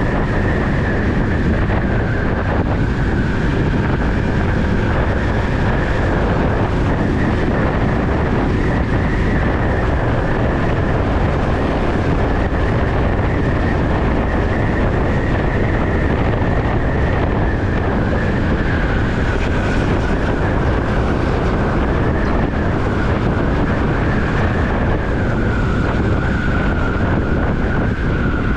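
Bajaj Pulsar NS200 motorcycle ridden through traffic: a steady rush of wind on the microphone over the single-cylinder engine running at an even speed. A thin high whine runs along with it and drops a little near the end.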